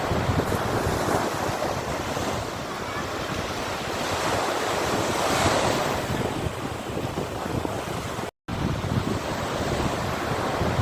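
Sea waves washing onto the shore in a continuous rush, with one wave swelling louder about halfway through. A split-second break in the audio comes near the end.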